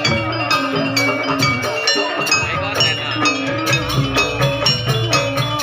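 Live gamelan-style music: metal percussion instruments struck in a quick, steady rhythm of ringing notes.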